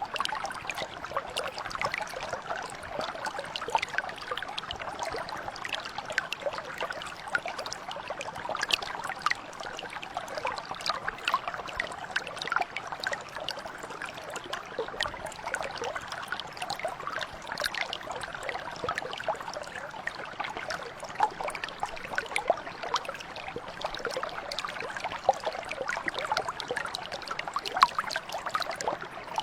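Small mountain brook trickling and gurgling over stones, a steady babble of water with many small splashes.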